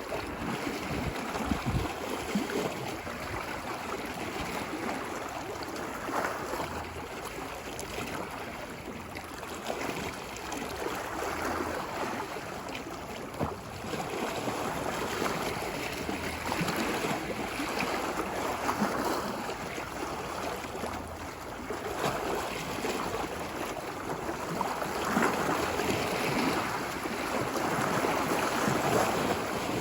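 Ocean waves washing ashore, a continuous rush of surf that swells and recedes every few seconds.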